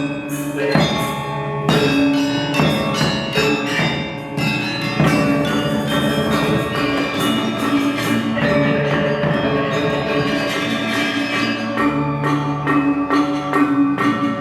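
Balinese gamelan gong ensemble playing: bronze metallophones and gongs struck in dense, quick patterns over long ringing tones, with heavier accented strikes in the first few seconds.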